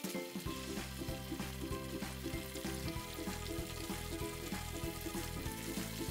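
Chicken kebab patties deep-frying in hot oil, a steady sizzle and bubbling, under background music.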